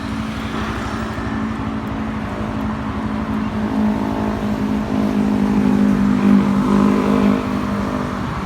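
Motorcycle running while being ridden: a steady engine note that swells a little louder about two-thirds of the way through, over low rumbling road and wind noise.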